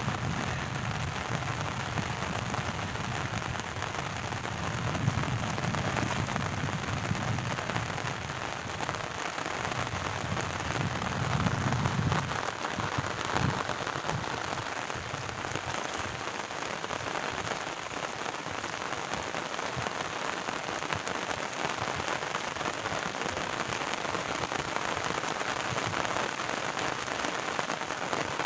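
Steady rain falling in a dense, even patter. A low rumble sits under it for roughly the first twelve seconds, then fades.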